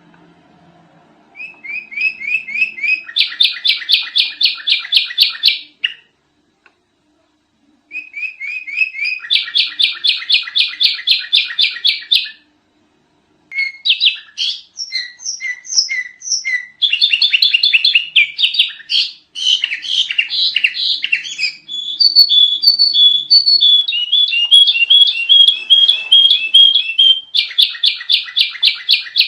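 Sooty-headed bulbul (kutilang) song: phrases of fast, evenly repeated chirps, about ten notes a second, broken by two short pauses. From about halfway in, the chirping runs on almost without a break and varies more in pattern.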